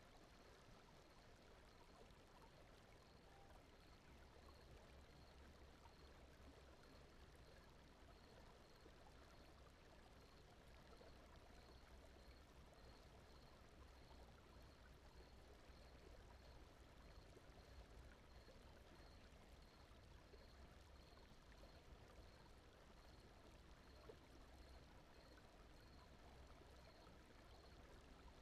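Very faint steady brown noise, an even rushing hiss like a distant stream, with a faint high pulse repeating about every 0.7 seconds.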